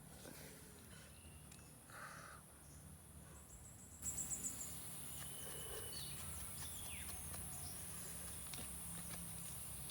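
Outdoor natural ambience: a steady high insect drone that grows louder about four seconds in, with a quick run of chirps and scattered short bird calls over a low background rumble.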